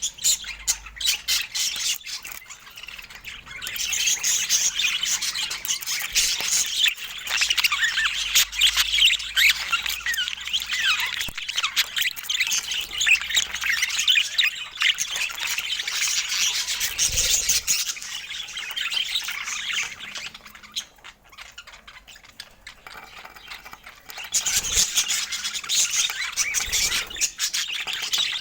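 Budgies chattering with a dense stream of quick chirps and squawks. The calling drops away for a few seconds about twenty seconds in, then starts up again.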